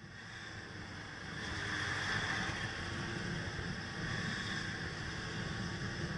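Steady road and engine noise of a moving car, picked up by its dashcam, growing somewhat louder about a second and a half in.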